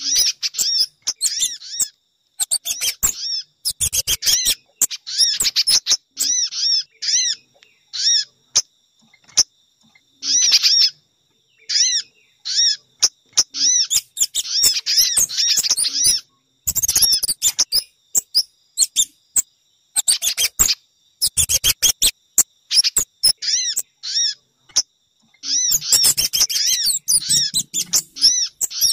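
Bird-lure recording of small songbird calls: rapid series of sharp, high-pitched chirps in repeated bursts with short pauses between them, played to draw sogon, pijantung (spiderhunter) and kemade birds.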